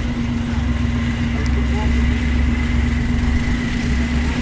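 1916 Stutz Bearcat's four-cylinder engine running as the car drives slowly past, a steady low rumble.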